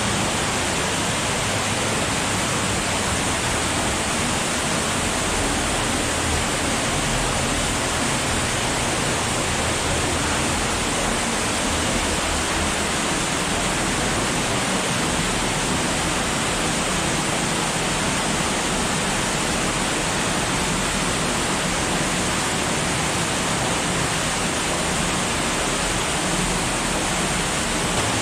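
Steady rush of fast-flowing water from an underground cave stream running high.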